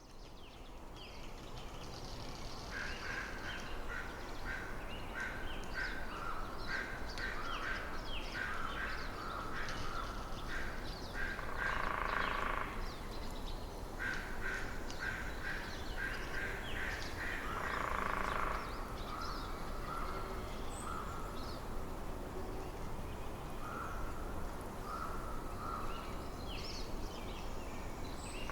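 Winter forest ambience fading in over the first couple of seconds: a steady background rush with small songbirds chirping in quick repeated series. A larger bird gives a harsh call twice, about twelve and eighteen seconds in, the loudest sounds here.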